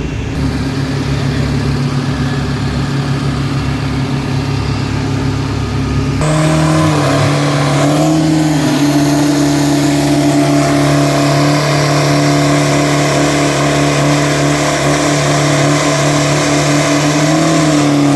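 Diesel pickup truck engine at a drag strip. It runs with a rough low rumble at first, then about six seconds in jumps to a steady high-rev note that is held for over ten seconds with a brief dip. The pitch drops away as the revs come down near the end.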